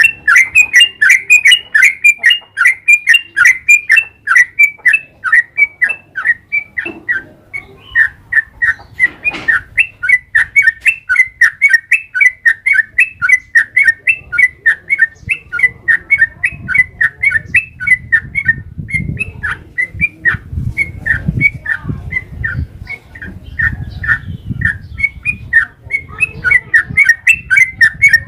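Yellow-vented bulbul (trucukan) singing a long, unbroken run of rapid chirpy notes, about three a second: the continuous "ropel panjang" song used to lure other bulbuls into answering. A low background rumble comes in during the second half.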